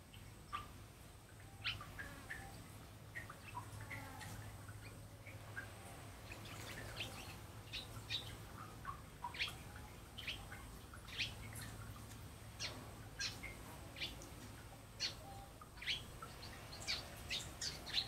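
Small songbirds chirping: a string of short, sharp chirps that come more often in the second half, over a faint low steady hum.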